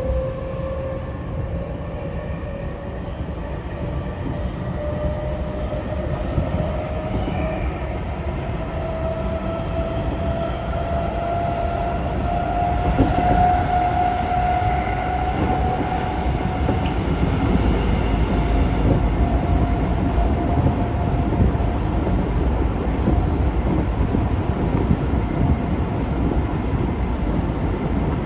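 Tokyo Metro 05 series train's Mitsubishi IGBT-VVVF inverter and traction motors whining. The pitch rises steadily as the train accelerates, then the whine fades out past the middle and returns faintly near the end. Steady rumble of the train running on the rails underneath.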